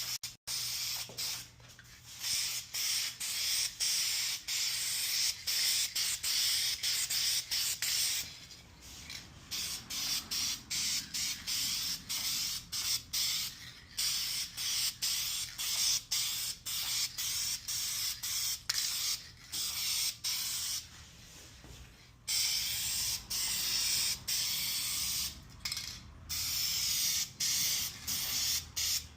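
Aerosol spray paint can hissing as paint is sprayed onto a car body in repeated short passes, the hiss cutting off briefly many times, with longer pauses about 8 seconds in and about 21 seconds in.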